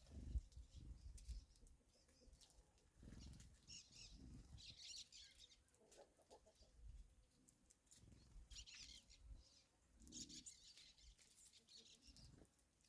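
Faint bird chirping in short bouts a few seconds apart, with low rustling thumps, the loudest near the start.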